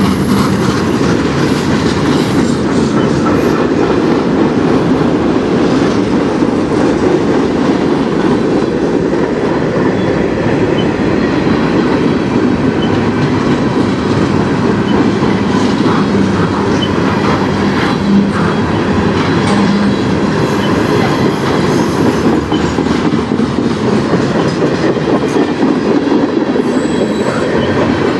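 Freight cars of a mixed freight train rolling past close by: a steady heavy rumble of steel wheels on the rails, with clickety-clack from the rail joints and faint high wheel squeal now and then.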